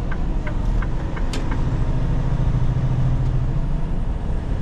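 Inside a semi truck's cab on the highway: the steady low drone of the diesel engine and road noise. A run of regular clicks, about three a second, stops about a second and a half in.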